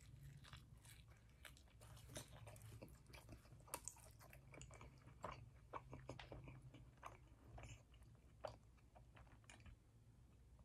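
Quiet close-up chewing of a roasted-cauliflower pita, a scatter of small wet clicks and crunches from the mouth.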